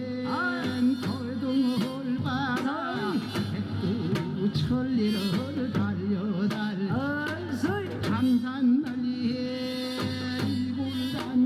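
Korean shamanic ritual (gut) music: steady drum strokes under a melody that bends and wavers in pitch, with held notes.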